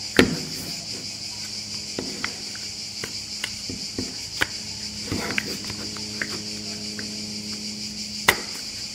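Hard plastic clicking and knocking as a polymer Vector-style front mount is worked onto an airsoft Glock 17 replica's frame by hand, the sharpest clicks just after the start and near the end, over a steady high-pitched hiss.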